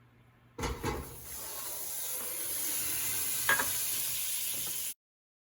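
Butter sizzling as it melts in a hot pan, starting with a knock and a steady hiss that builds a little, with one short clink about three and a half seconds in. The sizzle cuts off suddenly near the end.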